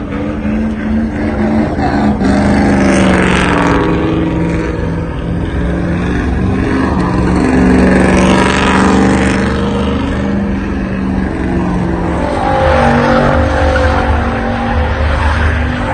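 Pickup truck engine held at high revs during a burnout, its pitch fairly steady, with tire squeal and hiss swelling three times.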